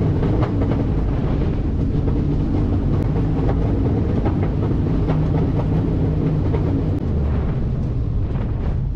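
Steady cockpit drone of a small twin-engine propeller plane flying on its one remaining engine after the other has failed, with scattered light rattles and knocks.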